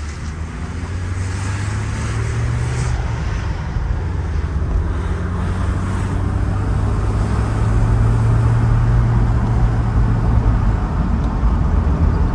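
Car engine and road noise heard from inside the cabin as the manual-transmission car drives, growing louder over the first several seconds as it picks up speed.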